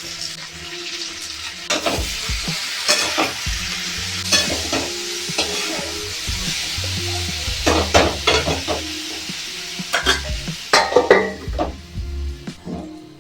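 Food sizzling as it fries in a pan while a spatula stirs it, scraping and clicking against the pan. The sizzle dies down near the end.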